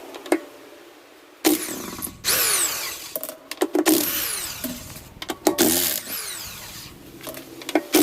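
Power tool, likely a cordless impact wrench or drill, undoing the wheel bolts in several short bursts, each with a falling whine.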